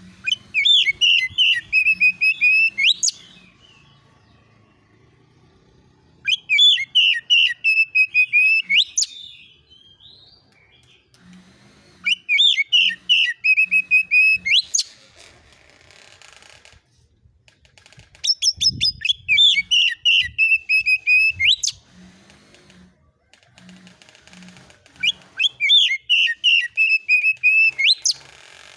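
Oriental magpie-robin (kacer) singing in the fast, agitated 'konslet' style: five bouts of about three seconds each, every one a quick run of repeated falling notes ending in a rising sweep, with pauses of about three seconds between.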